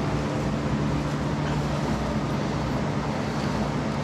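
A steady mechanical hum over a constant background rush, unchanging throughout.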